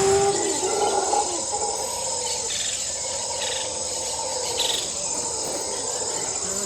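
Forest insects chirring in steady high-pitched tones, with a brief falling whine in the first second and a few short chirps in the middle.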